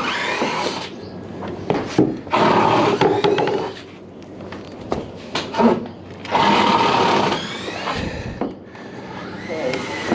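Wooden deck boards being pried apart during demolition: three long spells of creaking, squealing wood and nails, with sharp knocks between them.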